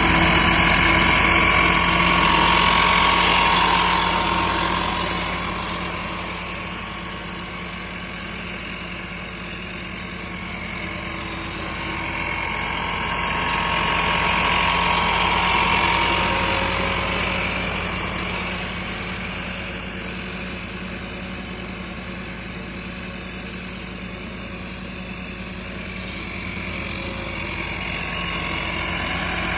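The 5 hp diesel engine of a 24-inch grass-cutting machine running steadily. It grows louder and fainter twice, loudest at the start and again around the middle.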